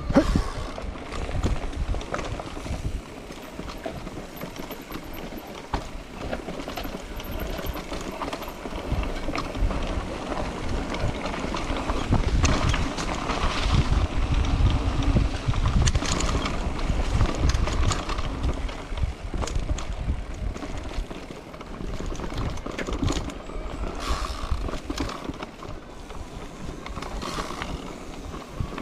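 Wind buffeting the microphone in a heavy rumble, with irregular rattles and knocks, as of equipment jolting over a rough surface while on the move.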